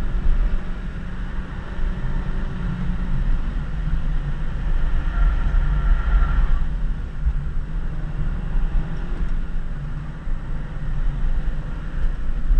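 Honda Civic Si (FG2) four-cylinder engine running under steady throttle at about 50 mph, with road rumble, heard from inside the cabin.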